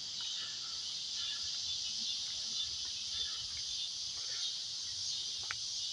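Steady, high-pitched chorus of insects trilling without a break, with a faint low rumble beneath it.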